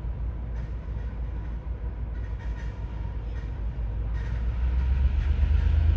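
Diesel-electric locomotive of TasRail's TR class running with a deep, steady rumble that grows louder about four and a half seconds in, with faint light clicks above it.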